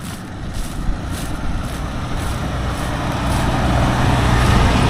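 Loaded lorry carrying chopped triticale driving past, its diesel engine and tyre noise growing steadily louder as it approaches.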